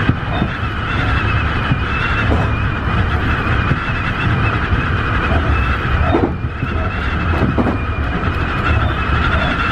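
Tobu 50090 series electric train running at speed, heard from inside the front car: a steady low rumble with a high steady whine over it, and a couple of short knocks from the wheels a little past the middle.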